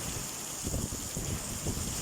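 Heavy summer rain falling steadily, with gusts of squall wind buffeting the microphone in low, uneven rumbles.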